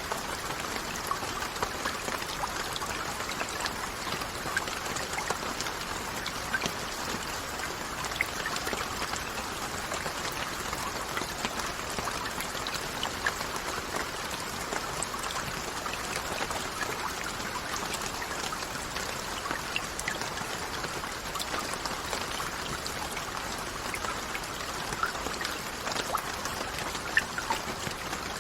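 Steady rain falling, with individual drops ticking sharply here and there over an even hiss.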